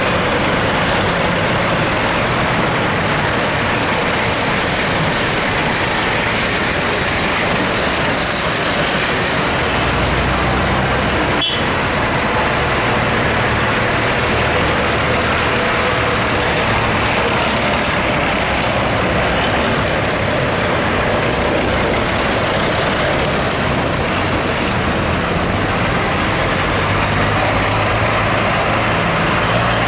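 Steady, loud running of tractor and car engines on the road, with the low engine note shifting as vehicles pass, and one sharp click about eleven seconds in.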